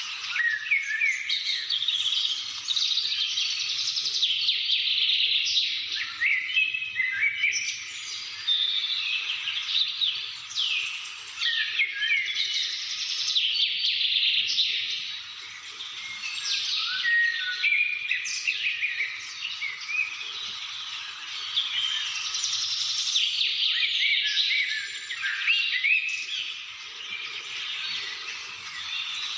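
A dense chorus of many birds chirping and singing at once, with short rapid chirps and quick sweeping notes overlapping without a break.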